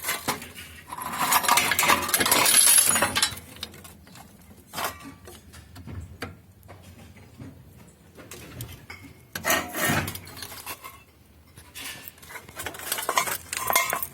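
Metal pieces clinking, scraping and clattering as scrap metal is handled, in irregular bursts, the loudest lasting from about one to three seconds in, with shorter ones near ten seconds and near the end.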